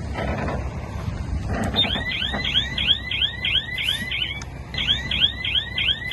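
Heavy machine's engine running steadily under a fast electronic chirping alarm, about four chirps a second, in two runs with a short break between them. It is typical of a reversing alarm on a bulldozer or dump truck.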